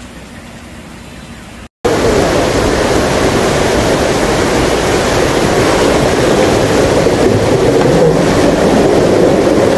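Fast-flowing floodwater rushing through a street as a steady, even wash of noise. It is quieter at first, then after a brief break about two seconds in it comes back much louder and stays steady.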